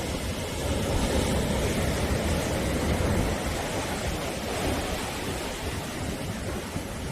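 Sea waves breaking and washing on the shore in a continuous rush with a heavy low rumble, swelling slightly about a second in.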